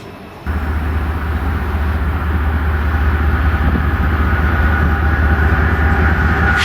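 Freight train's diesel locomotive running close by, a loud low rumble with steady engine tones that starts abruptly about half a second in.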